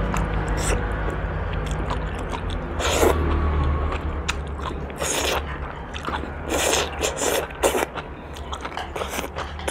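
Close-miked eating sounds: biting and chewing raw green vegetable stalks, with a run of short crunches and several longer wet, noisy mouth sounds, over a steady low hum.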